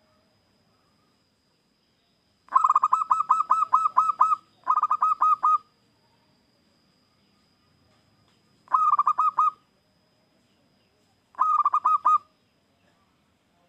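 Zebra dove (perkutut) cooing: four quick runs of rapid staccato coos, the first the longest, with pauses between them.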